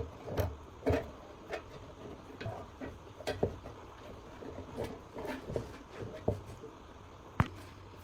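Irregular light knocks and clicks of hand work on parts, with one sharp, loud click about seven seconds in.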